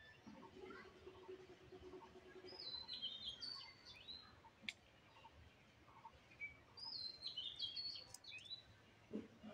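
Faint birdsong: a songbird sings two short phrases of quick, stepped whistled notes that fall in pitch, about three seconds in and again about seven seconds in. A single sharp click falls between the phrases.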